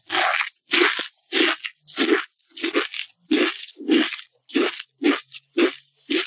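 Close-miked chewing of crunchy food: a steady run of crisp crunches, about two a second.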